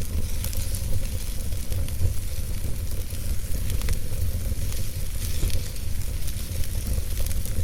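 Wood fire burning in a fireplace: logs crackling with frequent small irregular pops over a steady low rumble and hiss.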